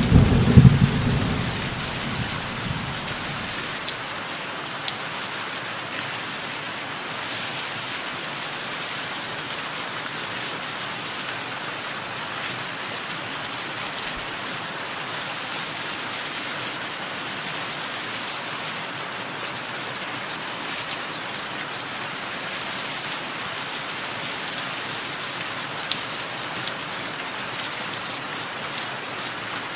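Steady rain falling, with a low roll of thunder dying away in the first few seconds. Short high bird chirps sound every second or two over the rain.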